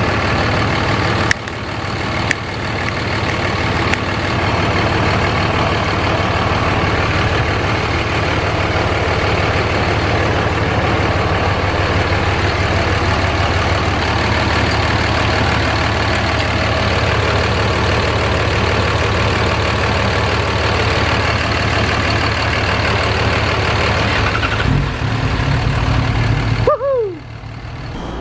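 Cummins diesel truck engine idling steadily, with a rougher, louder patch near the end before it shuts off suddenly and a brief falling whine as it winds down.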